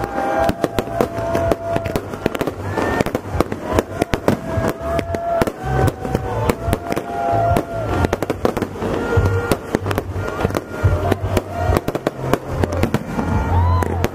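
Aerial fireworks going off in a rapid, continuous string of bangs and crackles.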